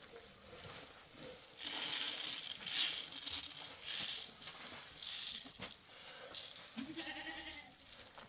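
A single bleat from a goat or sheep near the end, over short bursts of hiss.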